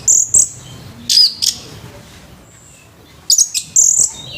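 Orange-headed thrush singing loud, high-pitched, rough-voiced song phrases in three short bursts: one at the start, one about a second in, and a longer one near the end.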